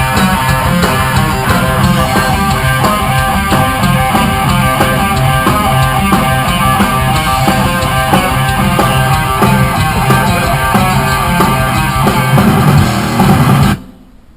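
A rock band playing loud, with drum kit and distorted electric guitar, and it stops suddenly near the end.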